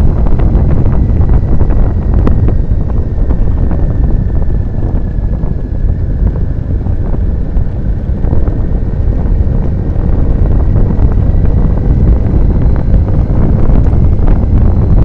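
Loud, steady wind buffeting on the microphone of a moving motorcycle, with engine and road noise beneath it.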